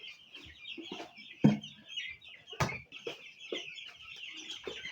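A flock of 11-day-old chicks cheeping continuously, many high calls overlapping. A few sharp knocks sound among them, the loudest about a second and a half in.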